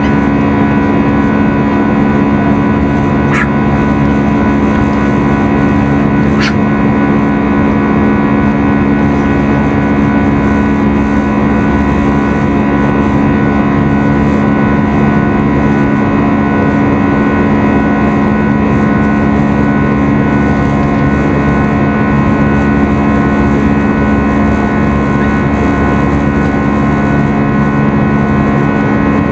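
Airbus A320 cabin noise during the climb after takeoff: a steady, loud jet-engine drone with a constant low hum and a few steady tones over the airflow rush.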